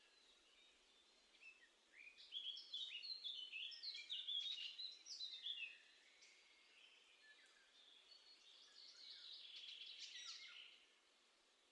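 Small songbird singing outdoors: a fast run of short, stepped high notes lasting about four seconds, then a softer, denser twittering phrase a few seconds later, over faint steady background hiss.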